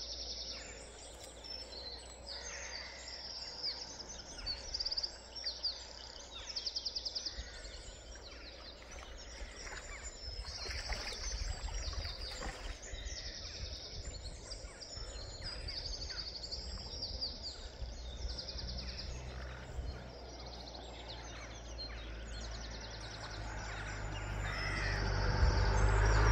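Small birds singing: repeated short, high trilled phrases, a couple of them louder around five and seven seconds in, over a low steady rumble. A rushing noise swells near the end.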